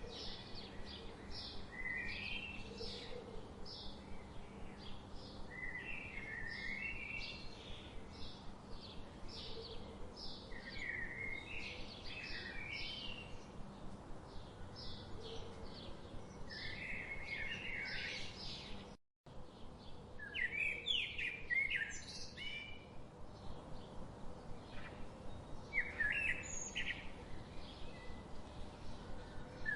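Birds chirping and singing: a steady run of short chirps about twice a second, with warbling phrases every few seconds. The sound cuts out for a moment just past the middle.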